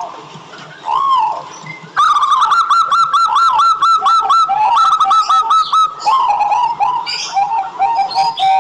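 Zebra dove (perkutut) singing: a single arched coo about a second in, then from about two seconds a rapid run of short staccato notes, several a second, followed near six seconds by a second, slightly lower run of notes.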